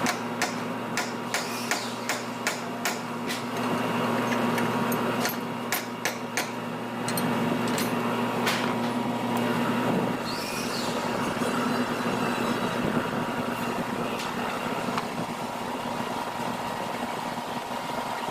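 Steady hum of workshop machinery, with a run of sharp knocks, about two a second, over the first few seconds and a few more about five to six seconds in.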